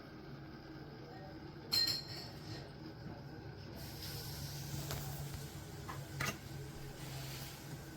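A sharp ringing clink about two seconds in, with a few lighter clicks and knocks later, over a steady low hum.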